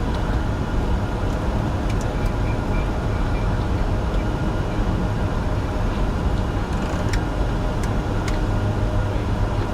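Steady cockpit noise of a Bombardier Challenger 605 climbing just after take-off, with a strong low rumble and a few faint clicks.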